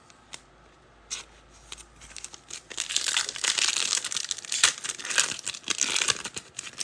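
A foil trading-card pack wrapper being torn open and crinkled by hand. After a few light clicks, it makes about four seconds of dense crackling and ripping that stops shortly before the end.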